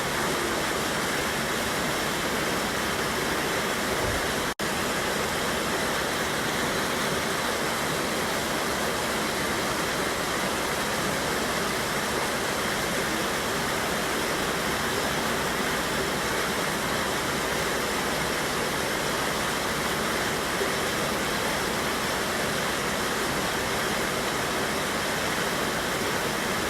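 River water rushing steadily over a small waterfall, an even, unbroken roar of flowing water. The sound cuts out for an instant about four and a half seconds in.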